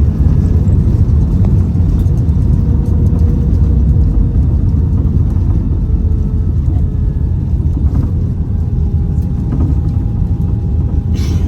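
Steady low rumble of an Airbus A320-200 heard from inside the cabin: engine and airframe noise around landing. A faint steady whine sits above the rumble, and there is one short click near the end.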